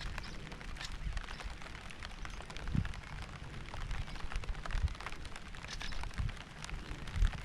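Steady rain, with many separate drops pattering on a surface, and irregular low rumbling thumps underneath, the loudest about three seconds in and near the end.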